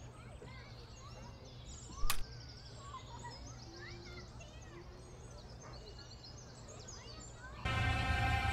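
Birds chirping and singing over a steady low outdoor background rumble, with a single sharp knock about two seconds in. Near the end, tense film music with sustained tones starts suddenly and is much louder.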